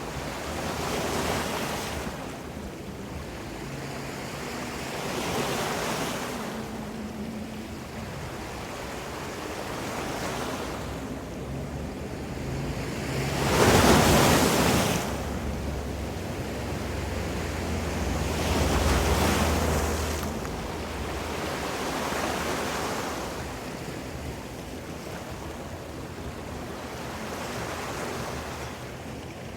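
Ocean waves washing onto the shore, a swell of surf every four to five seconds, the largest about halfway through.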